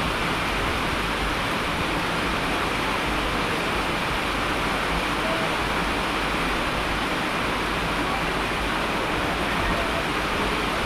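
Steady rain: an even, unbroken hiss with no sudden noises.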